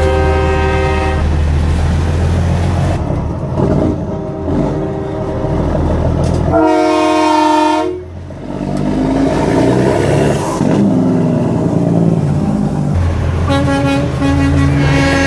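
Semi-truck air horns blowing long blasts over the low rumble of diesel engines. A loud horn blast comes about seven seconds in and cuts off sharply, and more horns sound near the end.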